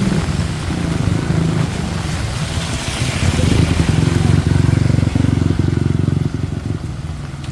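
A vehicle engine running close by, loudest a little past the middle and then falling away near the end, over the steady hiss of heavy rain.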